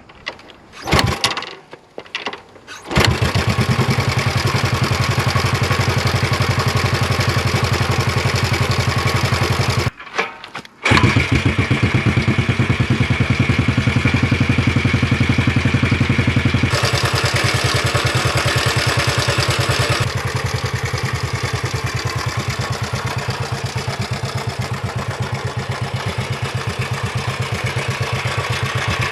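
1968 Honda CL250's 250cc parallel-twin engine through its stock muffler, starting up: a few short bursts before it catches about three seconds in, then running with an even beat. It cuts out briefly around ten seconds in, fires again, and settles into a steady idle that drops a little quieter over the last part.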